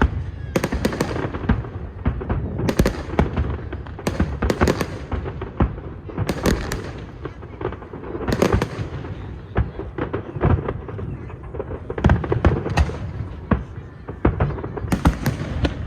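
Aerial fireworks display: shells bursting in rapid, irregular succession, well over a dozen sharp bangs over a continuous low rumble.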